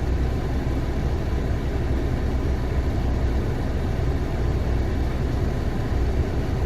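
2015 Nissan Versa's engine idling steadily, a low even rumble.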